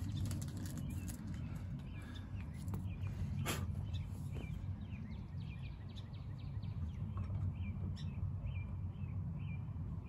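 A small bird chirping over and over, short notes about twice a second, over a steady low hum.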